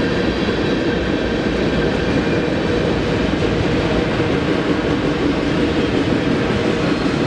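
Freight train rolling past at close range: a steady, loud rumble of rail cars on the track with faint steady ringing tones over it.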